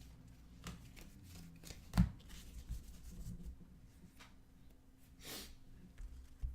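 Cardboard trading cards being handled on a table: soft slides and light taps as cards are flipped and stacked. There is one sharper tap about two seconds in and a short brushing swish a little after five seconds.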